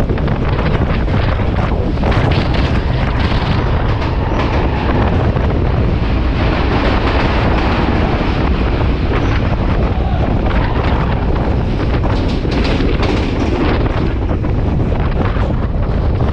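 Sri Lankan S14 diesel multiple unit train running at speed, heard from outside a carriage window: a steady rumble of the wheels on the rails with heavy wind buffeting the microphone. The rumble sounds fuller in the middle, while the train is inside a tunnel.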